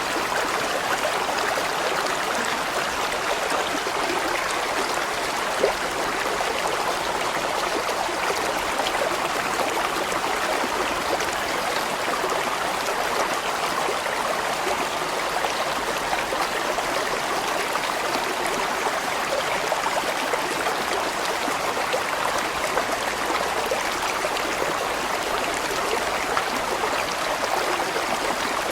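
A large mountain stream flowing, a steady, even rush of water over rocks with a constant splashing texture.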